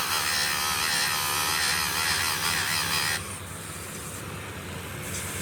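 Workshop machinery running: a loud, high-pitched whirring and grinding noise that cuts off about three seconds in, leaving a steady lower machine hum.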